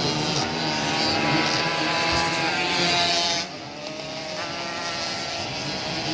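Two-stroke 85 cc Yamaha YZ85 motocross bike engines revving hard, the pitch rising and falling with the throttle. About halfway through the sound drops off suddenly, then a quieter, lower engine note climbs again.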